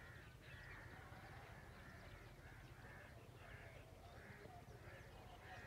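Faint, distant birds calling: short calls repeating about two or three times a second over a quiet rural background.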